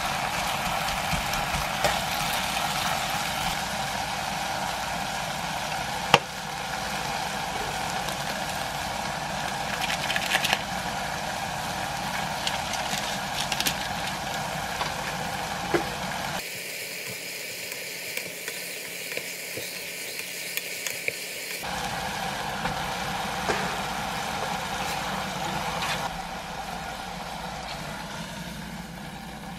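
Cabbage, meat and seafood stir-frying in a pot: steady sizzling with the scrape and tap of a spatula, and one sharp knock about six seconds in.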